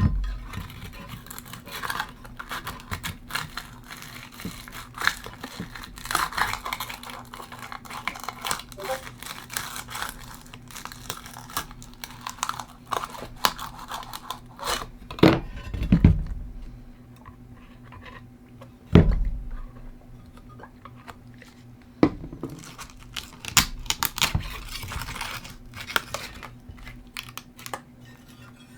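Handling noises: clicking, rustling and clinking of small objects, with several louder knocks, the heaviest about halfway through, over a faint steady hum.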